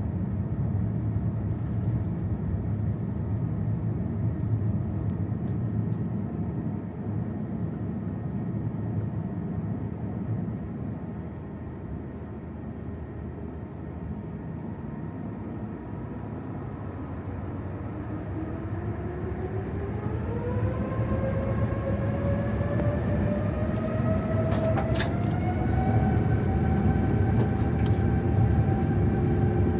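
Airbus A350-900's Rolls-Royce Trent XWB engines heard from inside the cabin: a steady low rumble while the aircraft taxis, then, about two-thirds of the way through, a rising whine as the engines spool up to takeoff thrust, levelling into a steady high tone. A few sharp clicks sound near the end.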